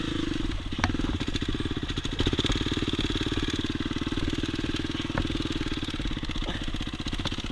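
Single-cylinder four-stroke dirt bike engine running steadily at low revs, with a fast, even beat.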